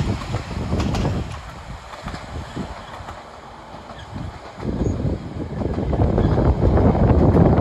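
A train running on the rails, its rumble dropping away in the middle and building up again louder towards the end.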